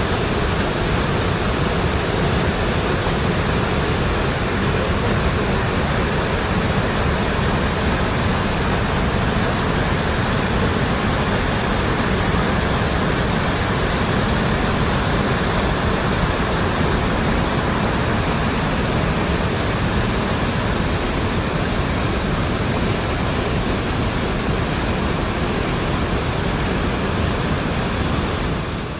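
Koilighugar Waterfall on the Ib River: a steady, loud rush of falling water.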